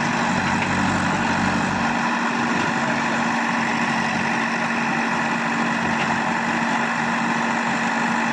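Heavy diesel engine running steadily at low revs, with a constant hum; its deeper rumble drops away about two seconds in.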